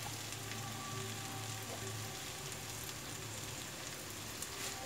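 Cauliflower and potato pieces sizzling gently in oil in a nonstick pan, a faint steady frying hiss.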